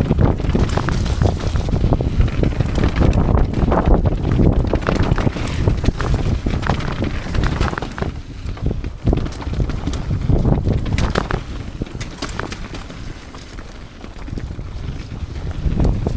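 A mountain bike riding down a wet, muddy trail: wind buffeting the microphone, over a steady rumble of the tyres, with frequent short rattles and knocks from the bike over rough ground.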